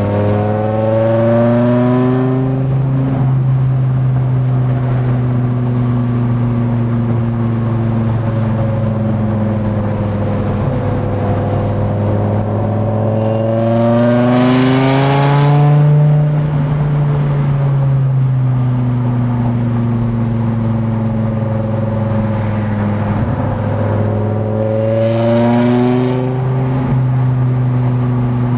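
Supercharged Dodge Viper V10 engine heard from inside the car at cruising speed, its pitch climbing three times as it accelerates: at the start, about halfway through and near the end. The middle pull is the loudest, with a rush of hiss at its peak.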